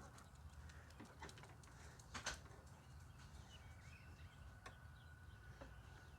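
Near silence, broken by a few faint clicks and taps of parts being handled, the loudest a quick double click a little past two seconds in. Faint bird chirps sound in the background.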